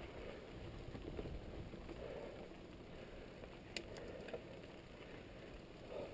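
Mountain bike riding: faint steady rolling noise with a few light rattles and one sharp click about two-thirds of the way through.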